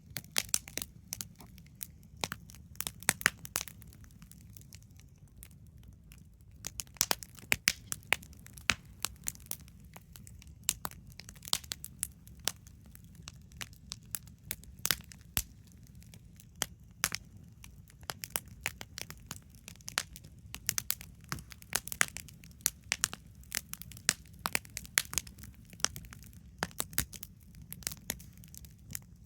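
Wood campfire crackling, with irregular sharp pops and snaps, some in quick clusters, over a low steady rumble.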